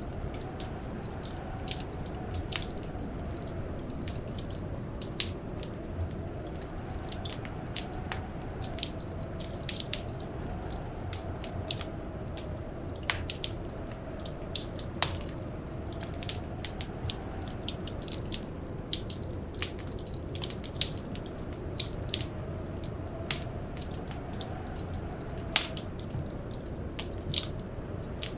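Wood fire crackling, with irregular sharp pops and snaps over a steady low rumble. Under it runs a faint, slowly wavering howl of blizzard wind.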